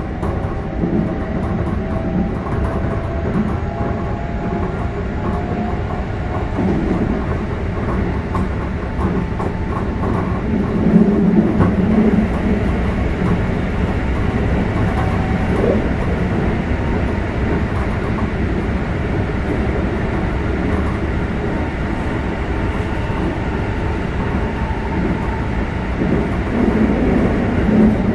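Keikyu 600 series electric train running, heard from inside the passenger car: a steady rumble of wheels on rail with rail-joint clatter, slightly louder from about eleven seconds in.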